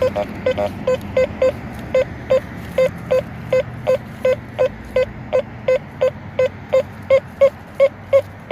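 Teknetics T2SE metal detector sounding a rapid string of short, low-pitched beeps, about three a second, as the coil passes over iron trash in the ground.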